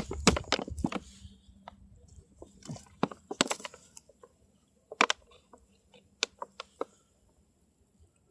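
Irregular short scrapes and clicks from a matchbox being handled and matches being struck while trying to light a small fire. A dense cluster comes in the first second, then scattered strikes, stopping about seven seconds in.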